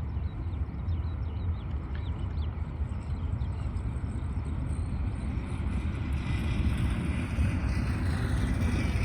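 Jet airliner engine noise, a rushing hiss that grows louder through the second half, over a rumble of wind on the microphone.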